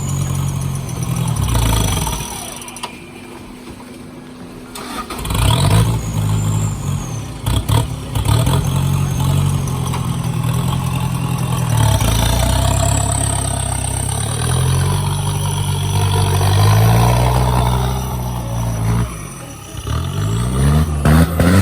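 Off-road vehicle engine running under load, revving up and down again and again. It drops to a low idle for a couple of seconds near the start, then revs hard again, with a few knocks and clatters near the end.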